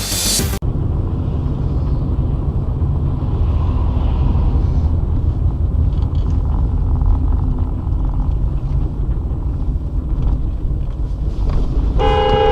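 Steady low rumble of a car driving, road and engine noise as picked up by a dashcam. Near the end, a car horn starts to sound.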